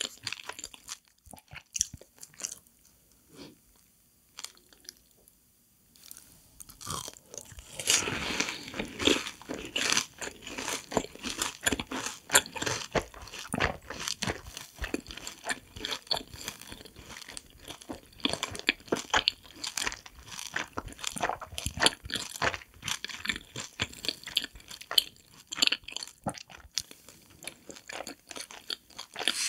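Close-up eating sounds of a fried cheese ball coated in seasoning powder. It is quiet for the first several seconds. About seven seconds in comes a loud crunching bite, followed by steady crunchy chewing.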